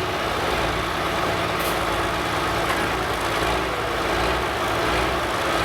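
Modified farm pulling tractor's engine running loud and steady, with no clear rise or fall in pitch.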